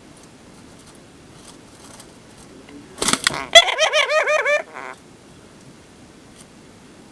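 Pet lovebird calling: a harsh squawk about three seconds in, then a quick run of about eight chirps in a second.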